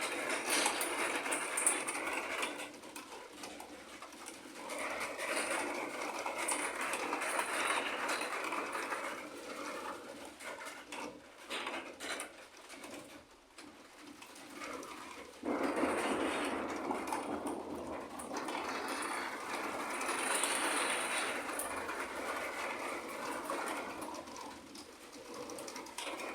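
Thunder rolling during a thunderstorm: long rumbles that swell and die away, the loudest beginning with a sudden crack about halfway through and rumbling on for several seconds.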